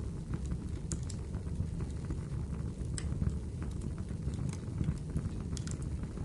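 Wood fire crackling in a fireplace: irregular sharp snaps and pops over a steady low rumble of the burning logs.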